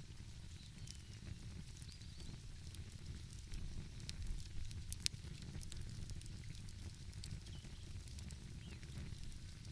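Wood fire crackling, with scattered pops and one sharper pop about five seconds in, over a steady low rumble.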